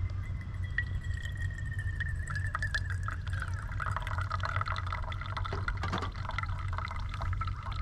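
Liquid sounds: a tone sliding slowly down in pitch, with dense crackling starting about two seconds in, over a steady low rumble.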